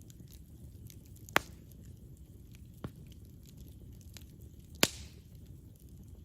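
Campfire burning with a low steady rumble and frequent small crackles of burning wood, with two loud sharp pops about a second and a half in and near the end, and a smaller one in between.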